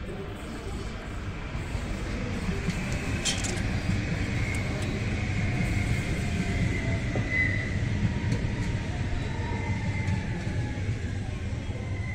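Electric commuter train passing on the tracks: a steady rumble of wheels on rail that builds as it nears and eases slightly as it goes by, with a high steady whine over it. A single sharp click about three seconds in.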